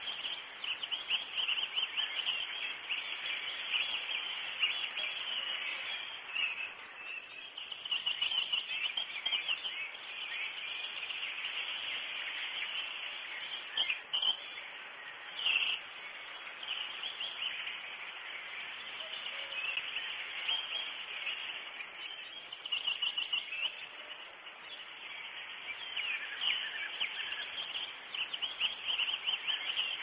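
Small birds chirping and trilling in a busy, continuous chorus of quick, high, repeated notes. Two short sharp clicks come about halfway through.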